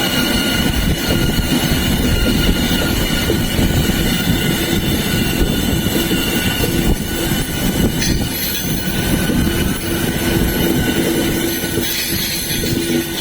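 Passenger train running with a steady rumble, its wheels giving a steady high-pitched squeal over the running noise, a lower whine growing stronger in the second half.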